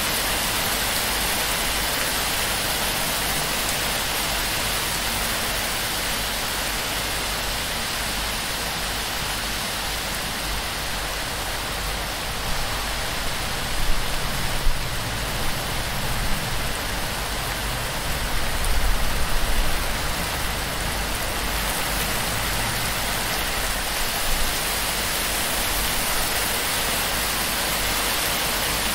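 Heavy torrential rain pouring onto a palm-thatch roof and running off its fronds: a steady, dense hiss of rain, with a few brief louder low swells around the middle.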